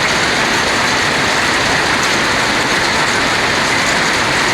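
Heavy rain pouring down in a steady, even wash of noise.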